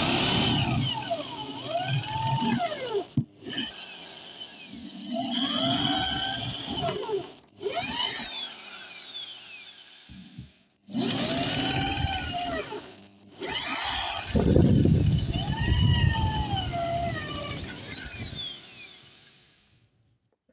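Handheld electric power tool cutting into a chipboard floor. Its motor whine rises and falls in pitch as the load changes, in several short stretches with abrupt breaks between them.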